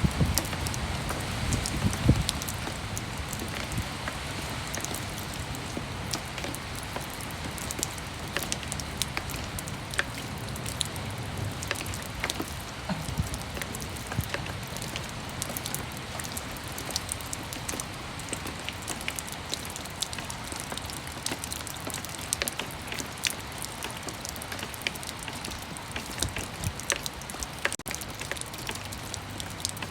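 Steady rain falling, a continuous hiss with many separate drops tapping sharply on hard surfaces close by. It is slightly heavier and fuller in the first couple of seconds.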